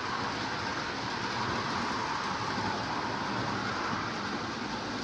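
Lionel O gauge model trains running on three-rail track: a steady whir of the locomotive motors and the wheels rolling on the rails.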